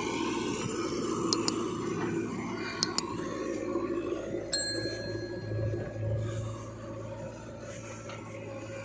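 A backhoe loader's diesel engine running steadily under a few light metallic clinks. About four and a half seconds in, a sharp metallic clang rings on briefly, as of the steel bucket striking metal.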